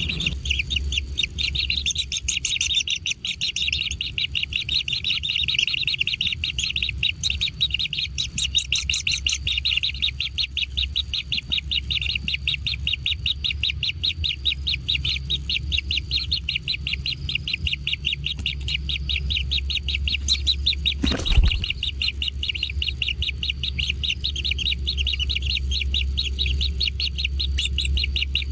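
Kingfisher nestlings giving a rapid, unbroken train of high chirping begging calls, over a steady low hum. A single sharp knock about two-thirds of the way through.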